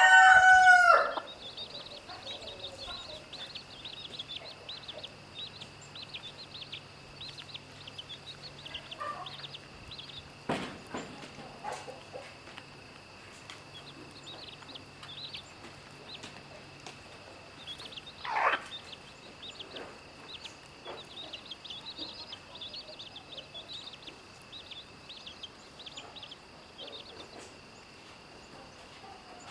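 A rooster's crow ends in the first second, then chicks peep softly and constantly in many short high chirps. One louder call falls in pitch about eighteen seconds in.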